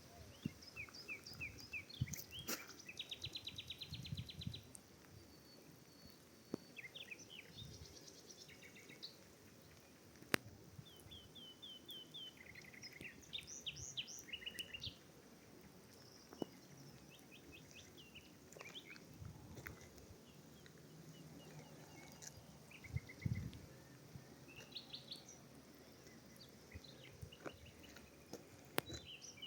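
Several songbirds chirping and trilling in short, repeated phrases, with occasional low rumbles and a couple of sharp clicks.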